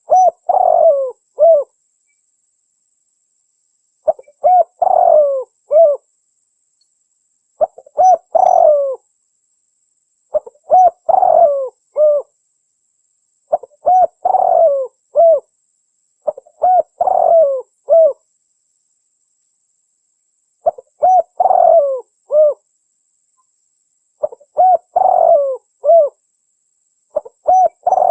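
Spotted dove (tekukur) cooing: the same phrase repeats about nine times, every three to four seconds. Each phrase is a few short notes running into a longer coo, then one separate closing note. This is the dove's song, used as a lure call to draw wild doves.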